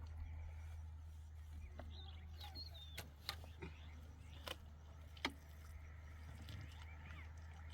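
Four sharp knocks about three to five seconds in, over a steady low rumble, with faint high chirps now and then.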